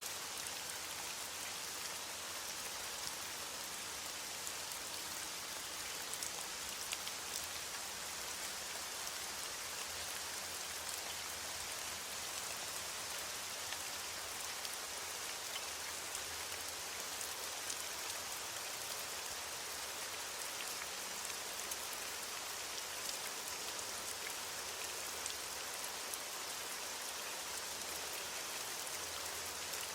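Steady rain falling, a continuous hiss with many small drop patters on surfaces.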